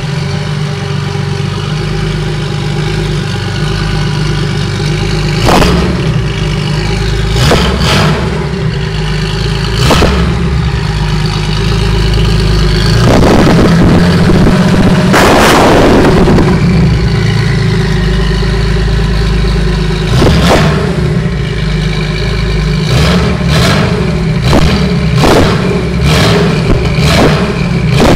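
Porsche 911 (965) turbocharged 3.6-litre flat-six running loud at idle, blipped repeatedly with short sharp revs. It makes one longer, louder rev around the middle and quicker blips near the end.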